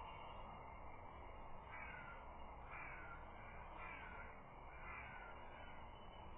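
A bird calling four times, about once a second, each a short harsh call falling in pitch, faint over steady background hiss.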